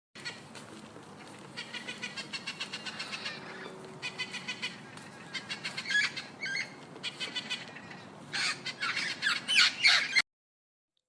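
Parrot squawking and chattering in a rapid series of short, harsh calls, loudest near the end, then cutting off suddenly.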